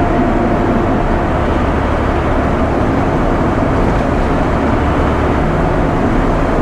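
Loaded ready-mix concrete truck driving, heard from inside the cab: steady diesel engine and road noise with no sharp events.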